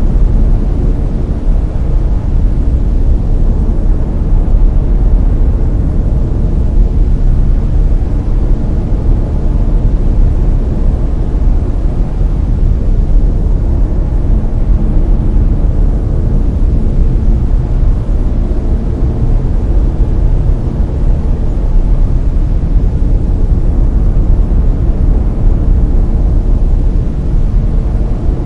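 Layered brown noise: a steady, deep rushing sound, heaviest in the low rumble and thinning toward the highs, with no changes or events.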